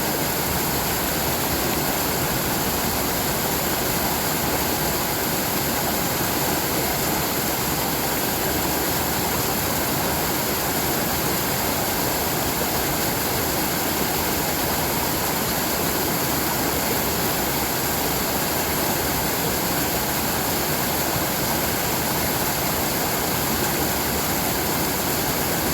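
Steady rushing of brook water, an even unbroken hiss with no change in level.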